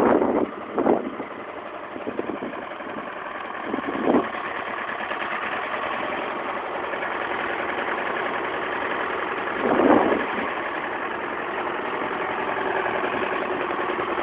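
Oliver 1755 tractor engine idling steadily on a cold start after two weeks of sitting, with brief louder surges about one, four and ten seconds in.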